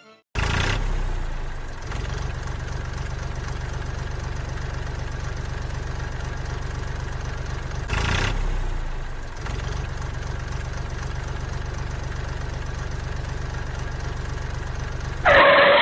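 Small engine of a DIY mini tractor idling steadily, with a brief rise about eight seconds in and a short louder sound right at the end.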